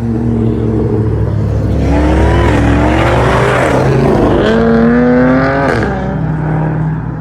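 Vehicle engines accelerating hard over a steady engine drone. From about two seconds in, the revs climb and fall, then climb again and drop off suddenly about six seconds in.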